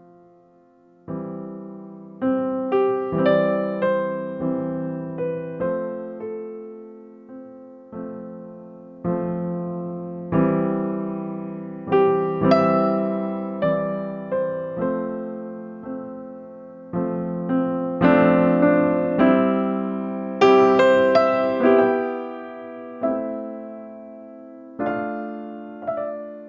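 Slow piano music: single notes and chords struck one after another, each ringing and fading away.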